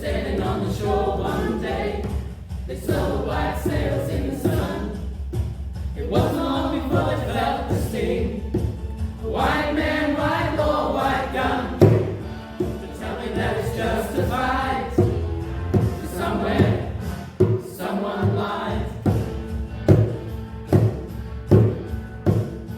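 A choir singing over a steady low accompaniment, with regular percussive thumps that become clearer near the end.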